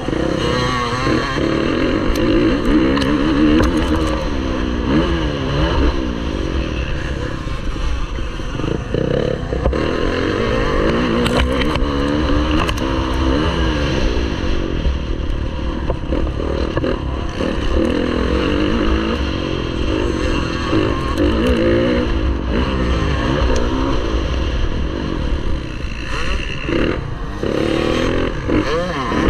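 Motocross bike engine racing, revving up and down over and over, its pitch rising and falling every second or two.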